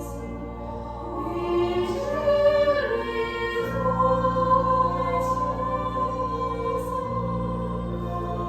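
Choral music with sustained, held notes.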